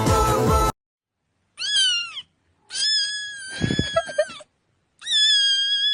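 Music stops under a second in, then a domestic cat meows three times: a short meow that rises and falls, a longer one with some low thumps under it, and a long, level meow still going at the end.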